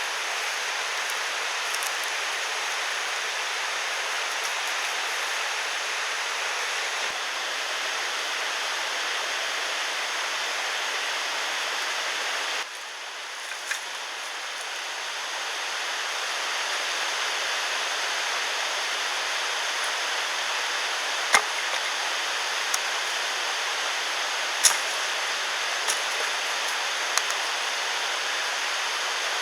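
Steady rushing of flowing water, like a mountain stream, that changes abruptly about halfway through. A few sharp snaps come in the second half.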